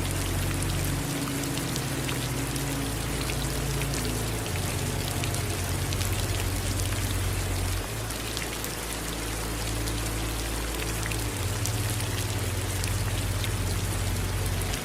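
Steady rain falling, with many fine drops pattering and a low rumble underneath.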